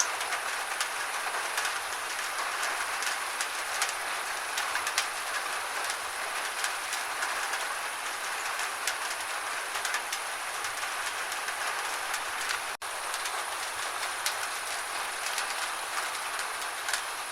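Gentle rain falling steadily, an even hiss of rainfall dotted with the sharp ticks of individual drops. There is a split-second dropout about thirteen seconds in.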